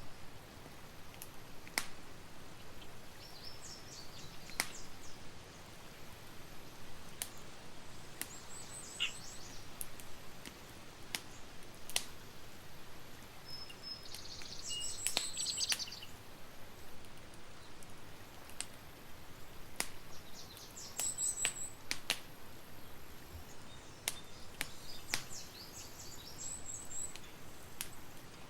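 Campfire crackling, with sharp irregular pops over a steady hiss, while birds chirp in short high phrases about five times.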